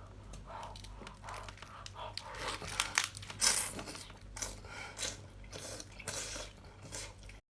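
Close-miked handling and eating of spicy bamboo razor clams: an irregular run of short tearing, rustling and crunching noises, loudest about halfway through.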